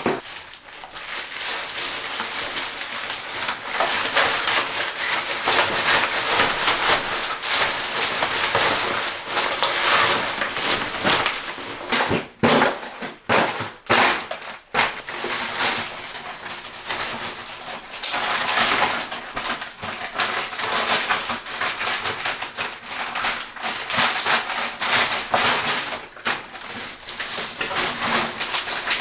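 Rubbish being handled: continuous crinkling, rustling and clattering of plastic and bottles, broken by short pauses about halfway through.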